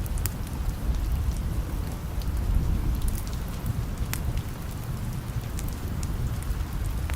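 Steady rain over the low rumble of distant thunder, which dies down in the first second or so. Scattered sharp pops cut through the rain, the loudest about four seconds in.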